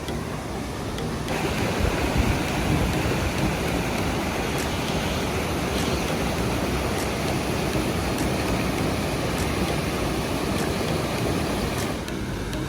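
Waterfall rushing steadily over rocks, getting louder about a second in and easing off a little near the end.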